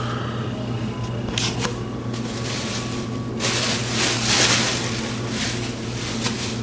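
Fireworks packages being handled: rustling and a few clicks of cardboard and wrapping, loudest for a second or two midway, over a steady low hum.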